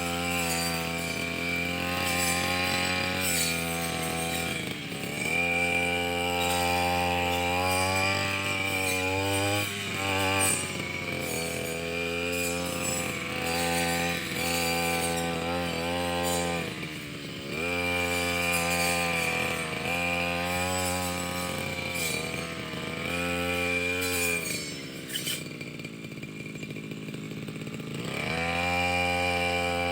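Brush cutter engine running under throttle while cutting, its pitch swelling and sagging every few seconds. Near the end it drops to a low idle for about three seconds, then revs back up.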